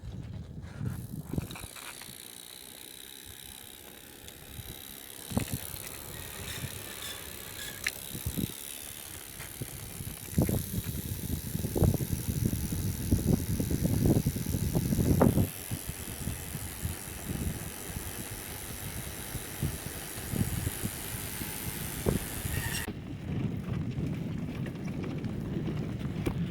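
Old bicycle being ridden, its parts rattling and knocking over bumps, loudest and bumpiest around the middle.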